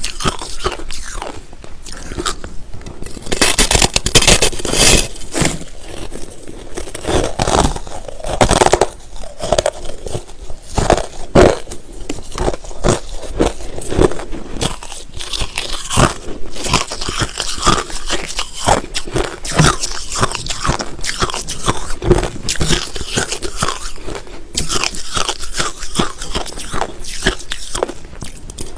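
Close-miked biting and chewing of crushed ice: loud, irregular crunches in quick succession.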